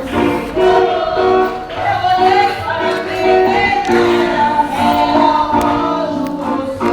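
Gospel worship singing from a church congregation, voices singing a hymn with instrumental accompaniment, heard from outside the building.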